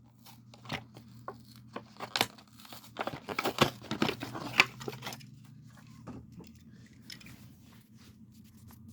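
Hot Wheels blister-card package being torn open by hand: cardboard ripping and the plastic blister crinkling. The crackles and rips are densest about three to five seconds in and thin out after.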